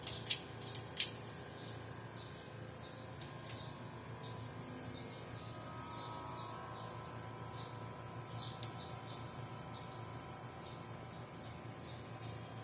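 Outdoor insects: a steady high-pitched drone with short chirps repeating about twice a second, over a low hum. A few sharp clicks sound in the first second.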